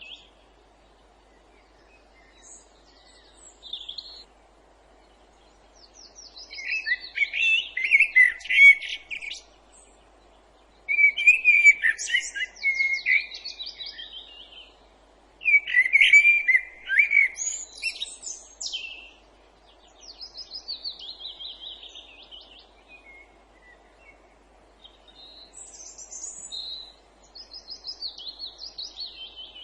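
Woodland songbirds singing in separate phrases a few seconds long, with short pauses between them. The loudest, most varied phrases come in the middle, and the later phrases are quick trills that fall in pitch.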